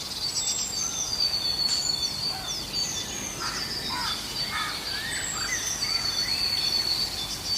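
Several birds calling at once: long, thin high whistles over a busy mix of shorter chirps and sweeping calls.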